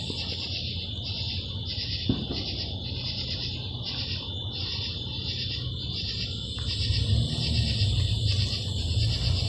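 Evening chorus of insects: a high, evenly pulsing shrill, about one and a half to two pulses a second, over a steady high ringing. A low rumble underneath grows louder near the end, and there is one brief click about two seconds in.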